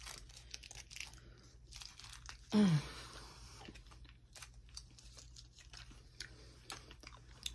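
A person chewing a chewy, taffy-like candy, with many small mouth clicks. There is a brief low hum from the eater about two and a half seconds in.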